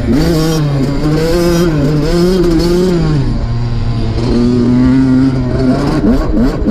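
Dirt bike engine running under load as it is ridden, its pitch rising and falling with the throttle. It steadies in the middle, then gives a few quick sharp revs near the end.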